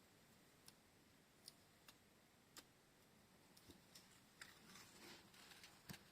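Faint, scattered clicks and taps of small objects being handled, a few single ones about a second apart, then a brief run of quick clicks and crinkly rustle about four and a half seconds in, ending with a sharper click.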